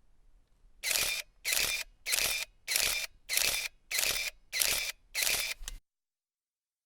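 Camera shutter clicking in a quick even series, about eight clicks at roughly one and a half per second, ending with a shorter click and then stopping suddenly.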